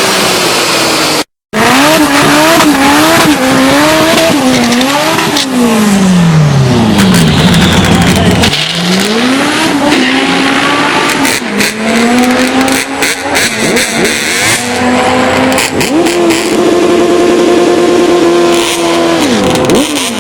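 Turbocharged Honda four-cylinder engine revving hard, its pitch climbing and dropping again and again as it pulls through the gears, with a brief cut to silence about a second in and a long falling drop in pitch in the middle.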